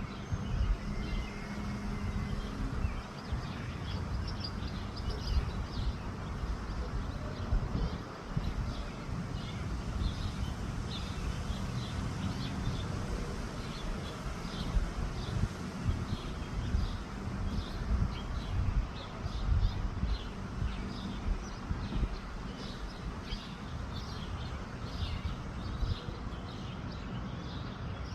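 Wind rumbling and buffeting against the microphone, with many short bird chirps repeating over it.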